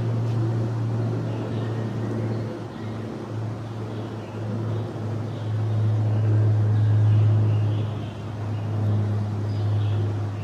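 Steady low mechanical hum of a running motor or machine, swelling louder for a couple of seconds past the middle, with faint distant voices.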